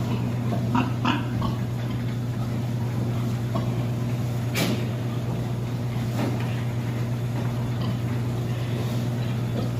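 Pigs giving short grunts and squeals over a steady low mechanical hum, with one sharp rattle about halfway through.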